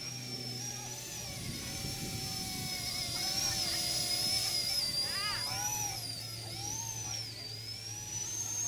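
Electric motor and rotor of a 1:36-scale EC135 (C123) micro RC helicopter whining at a high pitch that wavers up and down as it flies.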